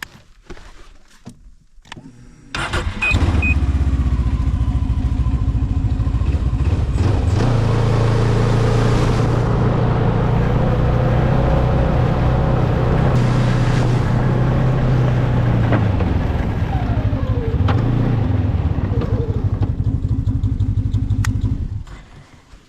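Snowmobile engine starting about two and a half seconds in, running with its pitch rising and then holding steady as the machine travels, dipping briefly later, and shutting off near the end.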